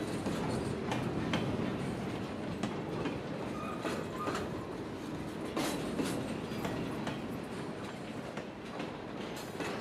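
Freight train rolling past, its steel wheels clacking over the rail joints at irregular intervals, with a few brief faint wheel squeals.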